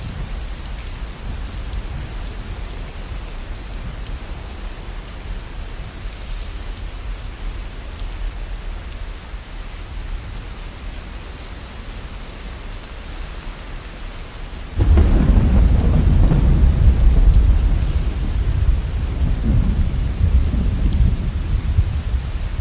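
Heavy rain falling steadily. About fifteen seconds in, a roll of thunder breaks in suddenly and rumbles on, swelling again near the end.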